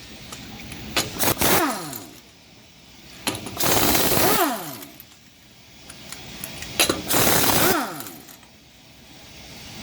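Impact wrench run in three bursts of hammering, each about a second long and each ending in a falling whine as the motor spins down, typical of working wheel or hub nuts.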